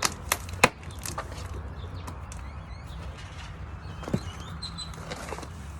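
Three sharp knocks within the first second, a duller thump about four seconds in, and faint bird chirps, over a steady low hum.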